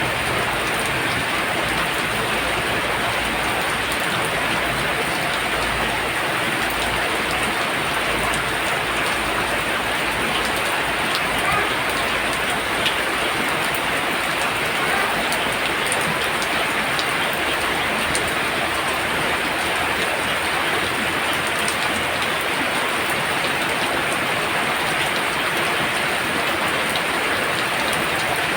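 Heavy rain falling steadily, a dense even hiss of rain with scattered individual drop ticks.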